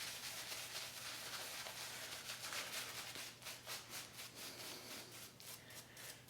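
Wet synthetic shaving brush working shaving cream into a lather on the face: faint, quick, rhythmic bristly scrubbing strokes.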